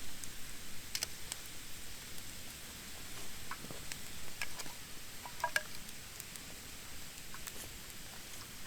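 Wood fire of damp, not yet seasoned branches crackling: scattered sharp pops and ticks over a steady hiss.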